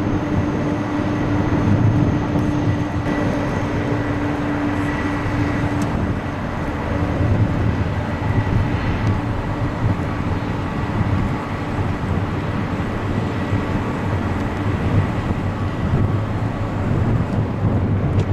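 Jet airliner engines running loud and steady, a continuous rushing roar with a faint hum.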